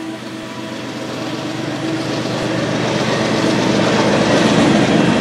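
Empty covered hopper cars of a freight grain train rolling past, steel wheels running on the rails, the noise growing steadily louder.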